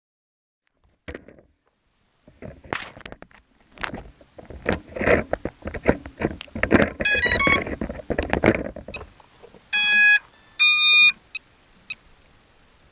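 Irregular clatter and knocks of things being handled, then a quick run of electronic beeps stepping in pitch, followed by two longer electronic beeps about a second apart.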